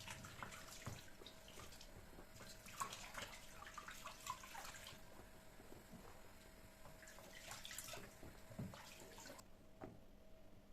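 Faint water splashing and dripping in a kitchen sink, with small clicks, in two spells; it stops suddenly about nine seconds in. A faint steady hum runs underneath.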